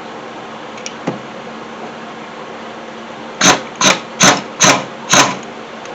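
Five sharp knocks, about one every half second, starting a little past the middle, over a steady low hum; two faint clicks come about a second in.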